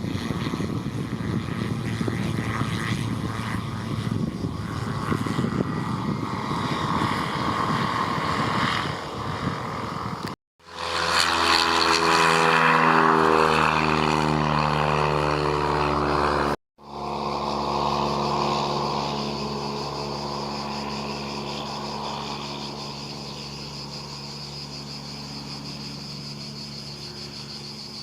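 Propeller aircraft engine running, heard in three abrupt cuts. In the middle stretch, the loudest, the engine's pitch falls steadily as it passes. In the last stretch it runs at a steady pitch and slowly fades.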